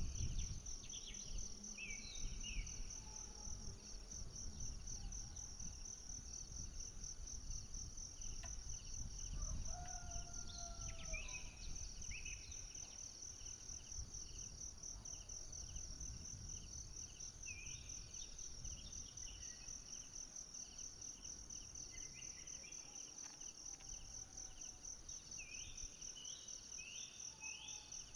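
Forest ambience: a steady, rapidly pulsing high insect trill, like crickets or cicadas, with birds calling in short falling notes at intervals. There is a lower drawn-out call about ten seconds in, and a low rumble that eases after the first half.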